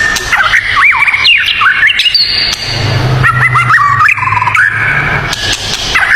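Songbirds singing in quick runs of whistled notes that swoop up and down in pitch, with a low steady hum under the middle of the song.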